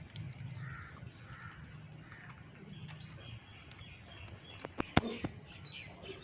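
Birds calling, then a run of short repeated chirps from about three seconds in, with a few sharp knocks about five seconds in.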